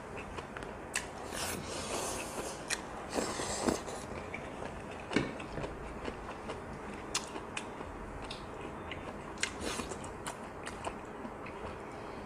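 Close-miked chewing and biting of offal stew (intestines and heart), with many small wet clicks and a few brief louder mouth noises in the first few seconds.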